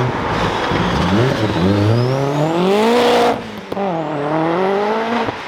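Car engine accelerating hard away, its revs climbing; a little over three seconds in the sound drops off sharply, then the revs climb again.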